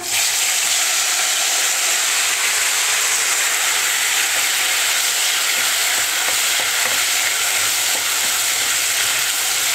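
Hot oil sizzling loudly and steadily as chopped tomatoes are fried in a wok with whole spices, the sizzle breaking out suddenly as the tomatoes hit the oil.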